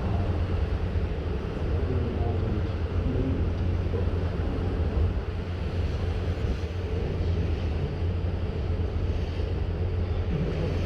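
Strong wind blowing across the microphone in a steady low rumble, with the wash of the sea under it.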